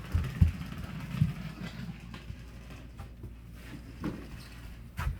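A few dull, low thumps in the first second and a half, over a faint steady low hum.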